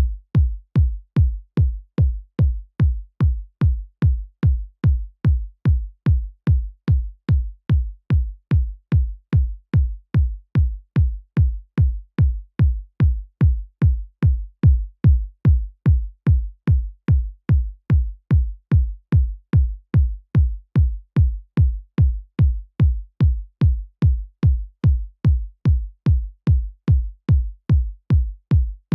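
Synthesized electronic kick drum looped on every beat, a little over two hits a second. Each hit is a short click with a fast falling pitch sweep that settles into a deep sub-bass tone, with no other instruments.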